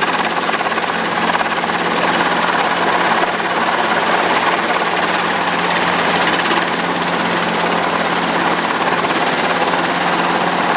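Helicopter rotor and engine noise during a hover, a loud, steady drone with a constant low hum.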